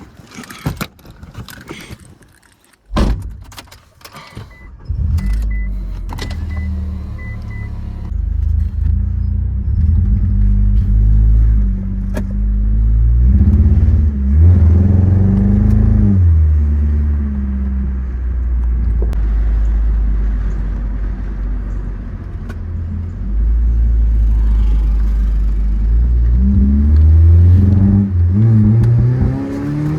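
A few knocks and clicks, then from about five seconds in a 2004 Mitsubishi Eclipse GS's 2.4-litre four-cylinder engine running as the car drives, rising in pitch under acceleration about halfway through and again near the end. The engine has a cylinder 2 misfire and is being driven to see whether it still bogs down when accelerating.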